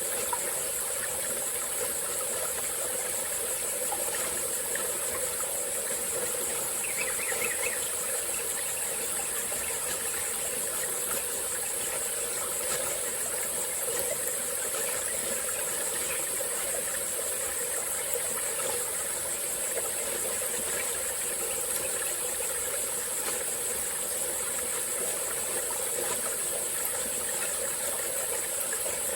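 Small tropical-forest stream flowing steadily, under a continuous high-pitched drone of insects.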